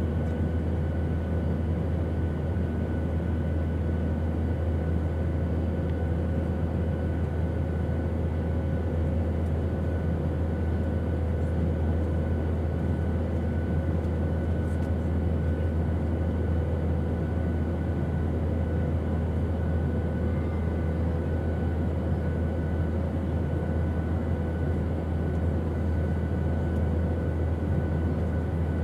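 Airplane engine noise: a steady, unbroken drone with a strong deep rumble and a few faint steady hums above it.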